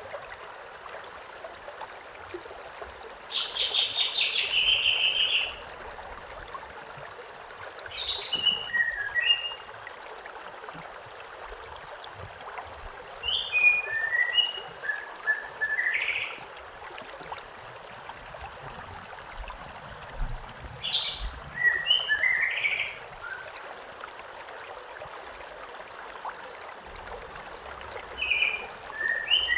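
Steady rushing of a river or stream, with a bird singing five short phrases of several quick chirping notes, spaced several seconds apart, over it.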